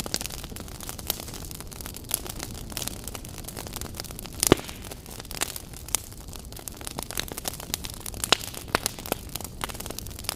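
Wood fire crackling, with a steady hiss and frequent sharp pops, one louder pop about halfway through.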